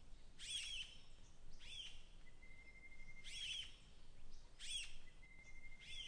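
Faint bird chirping: a short call of a few arching high notes, repeated about five times at roughly one-and-a-half-second intervals. Twice a thin steady whistle-like tone is held for about a second between the calls.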